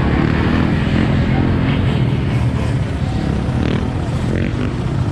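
Dirt bike engines running, the pitch rising and falling a little in the middle, with voices mixed in.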